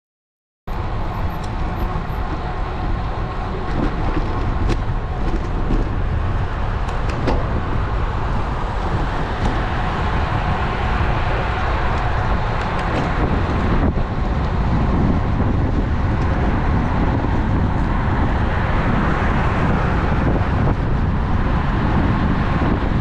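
Steady wind rush and road noise picked up by an action camera's microphone on a road bike riding through city traffic, starting abruptly about a second in, with a few faint clicks.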